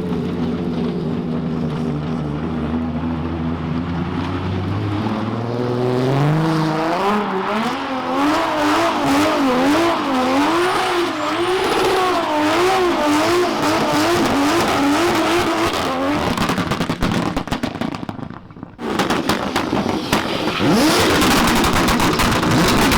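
Toyota Supra MK4's turbocharged 2JZ straight-six running at steady revs, then climbing and bouncing rapidly up and down as the throttle is worked through a drift. Near the end it gives way to a loud, noisy stretch after a brief drop.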